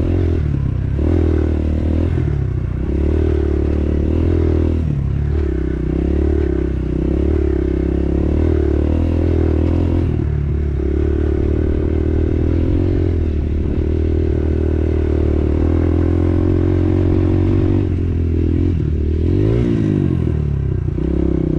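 Dirt bike engine pulling hard through thick sand, its revs holding for stretches and briefly dropping and climbing again as the throttle and gears change. Near the end the revs dip sharply and rise back.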